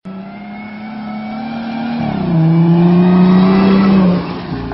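A Jeep's engine running as the Jeep drives up and passes close by, growing louder. Its pitch drops about two seconds in.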